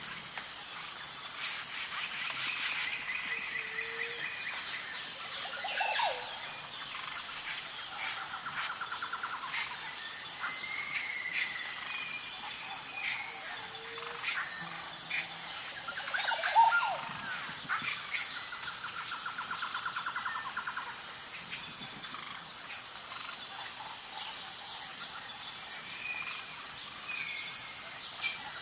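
Birds chirping and calling over a steady, high insect trill, with a few rapid pulsing trills. The loudest call comes a little past halfway.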